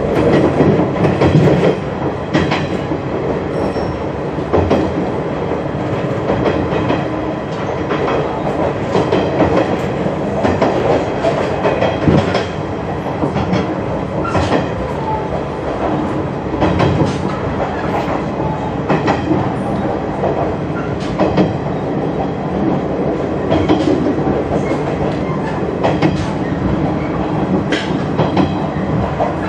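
Train running along the track, heard from inside the car: a steady rumble of running gear, with the wheels clicking over rail joints and points every couple of seconds.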